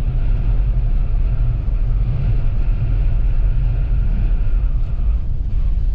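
Steady low rumble inside the cabin of a Toyota Land Cruiser driving on a snowy highway: engine, tyres and strong wind against the vehicle blending into one even noise.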